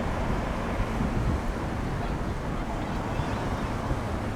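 Wind buffeting the microphone in stormy weather: a steady low rumble with a hiss over it.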